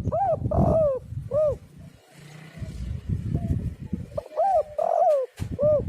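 Spotted dove cooing: two three-note coo phrases, each a rising-and-falling note, a rougher middle note and a short final note, about four seconds apart, over a low rumbling background.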